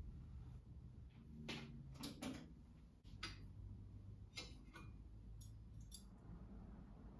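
A series of faint, irregular clicks and light taps, about eight of them, over low steady room hum.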